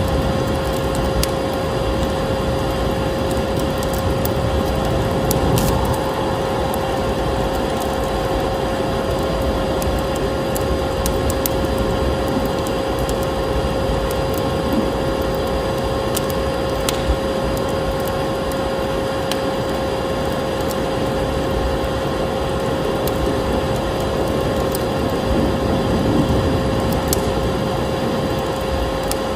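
Electric vacuum cleaner running steadily with a constant whine, mixed with a wood fire crackling in a fireplace, its sharp pops scattered on top.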